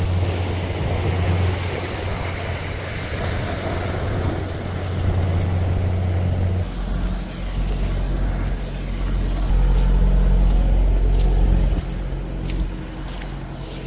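Semi-truck diesel engine running steadily. Its pitch drops lower about halfway through, and it is loudest a couple of seconds later. A few faint clicks come near the end.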